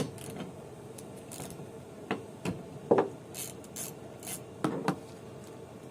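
Hand tools working at a car's wiper-arm nut: irregular clicks and a few sharper knocks mixed with light scraping, as a 13 mm socket is fitted and worked.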